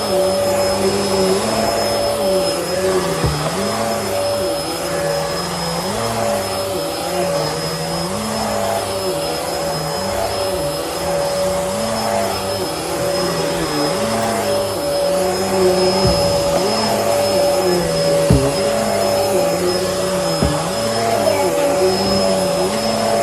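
Bissell Helix vacuum cleaner running steadily with a high motor whine. Its lower hum wavers up and down every couple of seconds, with a few brief knocks along the way.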